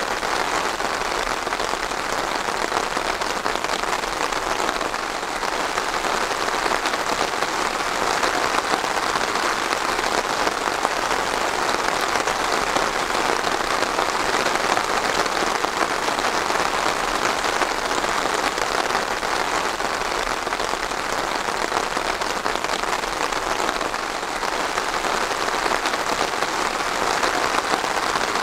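Steady rain falling, a continuous even hiss of countless drops that neither builds nor fades.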